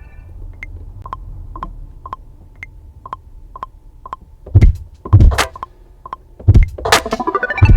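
A sparse drum-machine beat from a beat-making session. Sharp ticks come about twice a second over a low rumble, and heavy kick drums come in about four and a half seconds in.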